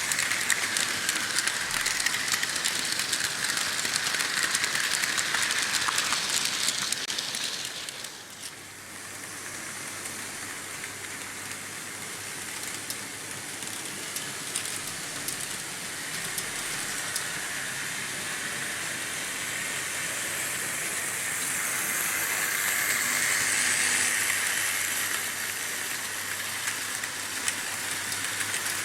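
Märklin H0 model trains running on stamped-steel M-track, a steady rolling noise of metal wheels on the rails. The noise is loud at first and falls away about eight seconds in, then builds again to a second peak near the end and eases off, as trains pass near and move away.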